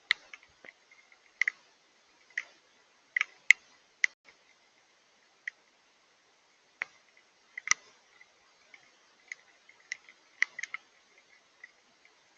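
Irregular sharp taps of water drops striking a hard surface, spaced unevenly, from several in quick succession to gaps of a second or more, each with a short ringing note.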